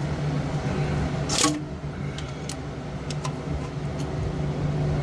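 A steady low hum, with one brief loud clatter about one and a half seconds in and a few light clicks after it, as of tools and parts being handled.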